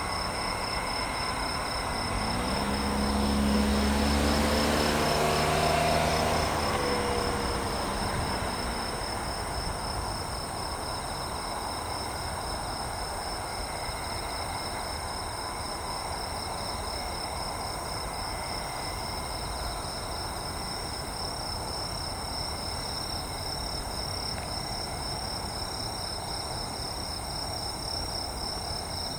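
Insects chirring steadily, with an evenly pulsing high tone throughout. From about two to eight seconds in, a vehicle passes with an engine tone that drops in pitch as it goes by, and this is the loudest moment.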